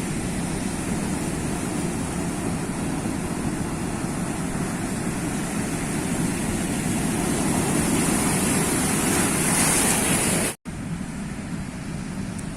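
Sea waves on the shore, a continuous rushing surf that swells louder over several seconds. About ten seconds in it cuts out abruptly for an instant, then the surf carries on more softly.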